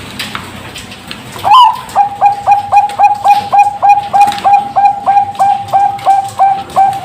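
Zebra dove (Bangkok-type perkutut, bred for song) singing: a rising opening note about a second and a half in, then a fast, even run of short coos, about four a second.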